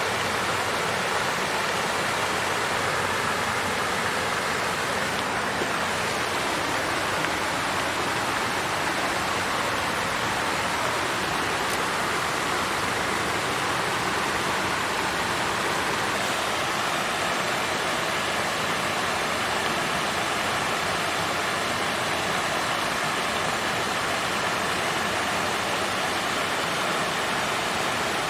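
Water fountain running, a steady, even splashing and trickling of falling water.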